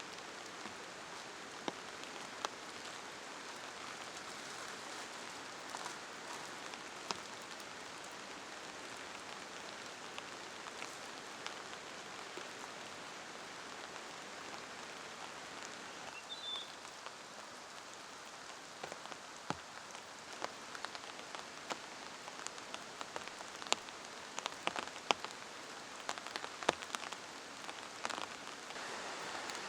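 Steady rain falling, with individual drops tapping sharply on a nearby surface, the taps growing more frequent in the second half.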